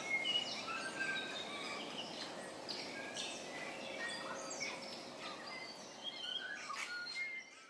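Several birds chirping and calling, many short chirps overlapping, over a steady outdoor background hiss.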